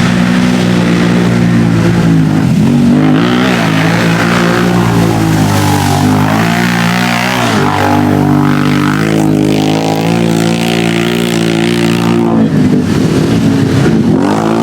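Off-road vehicle engine running hard at full throttle. Its pitch sags and climbs again a couple of times, near two to three seconds and around seven seconds in.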